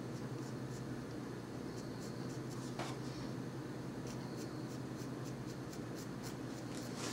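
Colored pencil shading lightly on paper in short, gentle strokes: a series of faint, quick scratches, a few each second.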